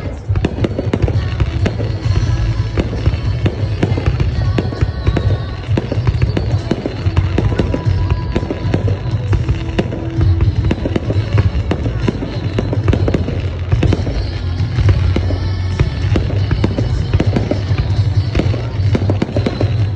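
Fireworks going off in rapid succession: a dense, continuous run of bangs and crackles, with music playing underneath.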